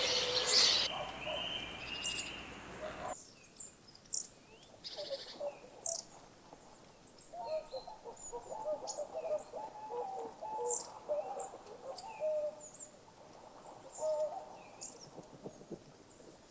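Several birds calling: many short, high chirps and clusters of lower pitched notes. The first three seconds are louder and noisier, and that stretch cuts off abruptly.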